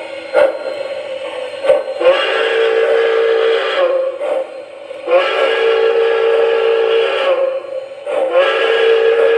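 MTH Rail King M1A Mountain model steam locomotive's onboard sound system blowing its steam whistle: three long blasts of about two seconds each. Between the blasts a steady tone and a few short clicks carry on.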